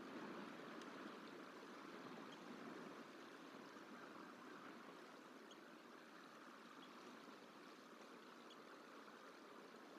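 Faint, steady hiss of running water, like a flowing stream, with a few faint short chirps.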